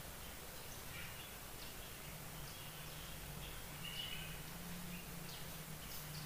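Faint, scattered bird chirps over a steady outdoor background hiss, with a low steady hum underneath.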